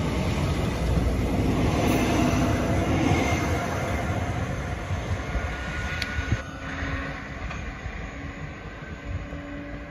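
A Southeastern electric multiple unit runs past and away along the platform. Its rumble and wheel noise are loud at first, then fade steadily as it recedes into the distance.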